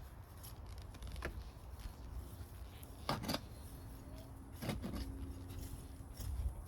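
Digging and scraping through soil while searching for sweet potatoes, a run of short scrapes and rustles with two louder scrapes about three and four and a half seconds in.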